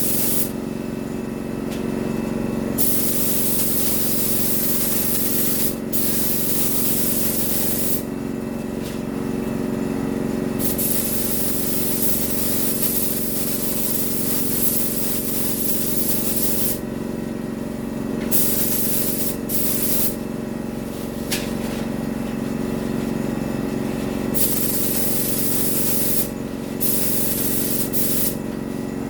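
Paint spray gun hissing in long passes as the first coat goes onto the Jeep, the hiss stopping and starting every few seconds with the trigger. Under it runs a steady mechanical hum, typical of the air compressor feeding the gun.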